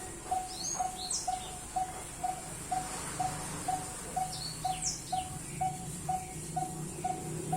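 Birds calling: a short mid-pitched note repeated evenly about twice a second, with two brief bursts of high chirps, one about a second in and one about halfway.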